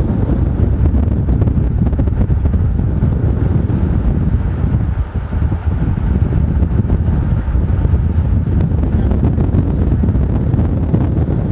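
Strong wind blasting the microphone: a loud, rough, unbroken rumble that wavers a little in strength.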